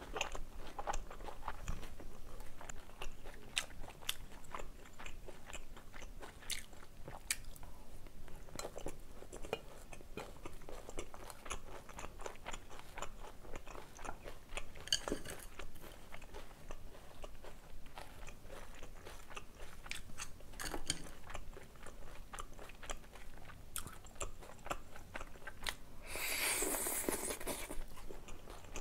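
Close-miked chewing and crunching of jajang black-bean sauce with chopped Cheongyang green chili peppers, with many small wet clicks of the mouth. Near the end comes a louder noisy burst as glass noodles are slurped.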